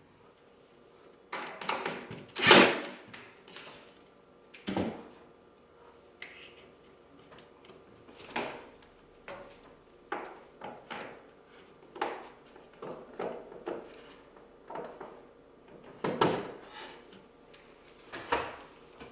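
A series of irregular knocks and clunks, about ten, from objects or fittings being handled during a microwave installation. The loudest clunk comes about two and a half seconds in, with quiet gaps between the strikes.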